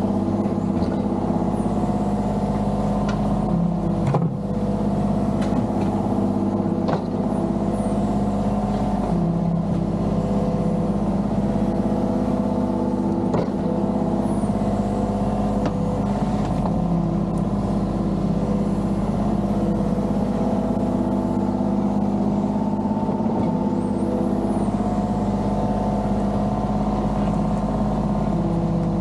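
Mini excavator engine running steadily while digging, with a few sharp knocks in the first half.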